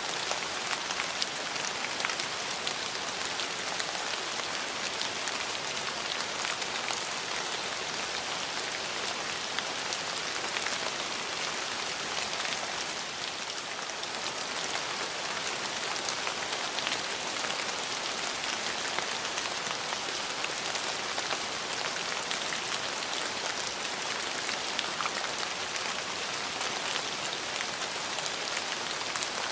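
Steady rain falling, an even hiss with many small individual drop taps.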